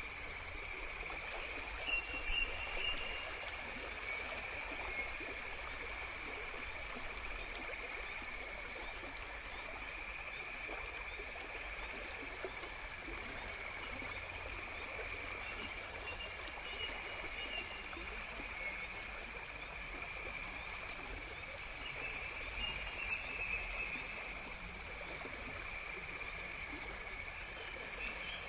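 Nature ambience: a steady stream-like hiss under a continuous insect chorus, with a few short bird chirps and a fast high trill about three-quarters of the way through.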